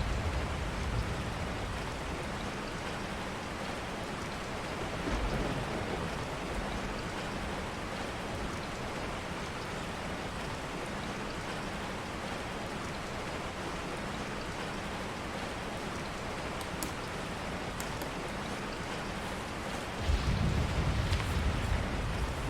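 Steady rain falling, with deep rumbles of thunder about five seconds in and again near the end.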